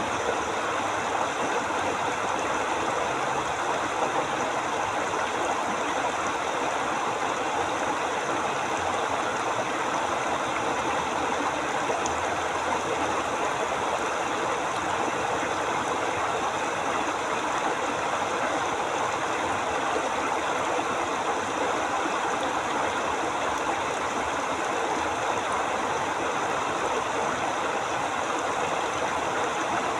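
River water flowing steadily over rocks: an even, continuous rushing and babbling.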